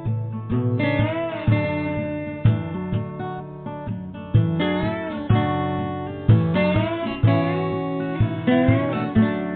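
Instrumental passage of an acoustic guitar song: strummed acoustic guitar chords on a steady beat, with a lead melody that bends up and down in pitch now and then.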